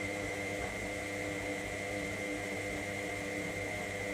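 Electra AWF683 front-loading washing machine's motor turning the drum during a wash tumble: a steady hum with a high, even whine over it.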